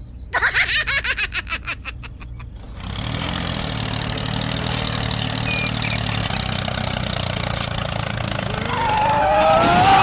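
An engine or motor starts with a rapid train of pulses for about two seconds, then runs with a steady low hum. Rising whistle-like glides come in near the end.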